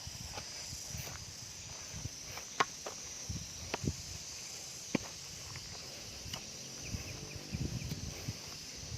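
Footsteps on a jungle trail: uneven steps and scuffs, coming closer together near the end, over a steady high drone of insects.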